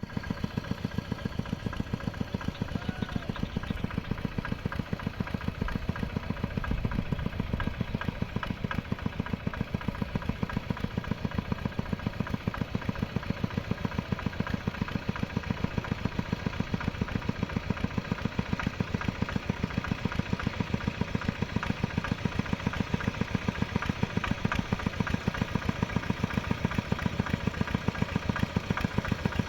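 Mini tractor engine running steadily with an even, pulsing beat while plowing a field.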